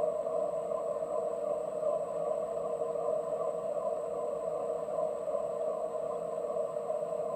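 Metal lathe running steadily while turning a steel crankshaft, a constant hum with a thin high whine above it.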